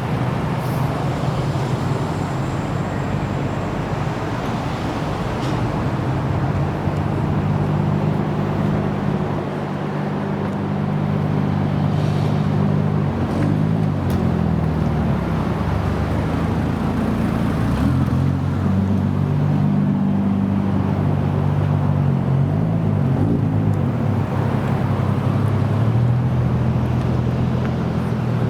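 Car engines idling: low, steady engine notes that waver and shift slightly in pitch now and then.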